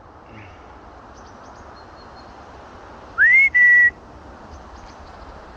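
A person whistles to call a pet: one rising whistle running straight into a short level note, about three seconds in. Steady wind noise throughout, with faint bird chirps.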